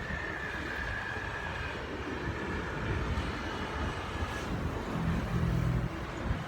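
Steady rumble of vehicle traffic crossing a bridge overhead, with a faint high whine in the first few seconds and a low hum near the end.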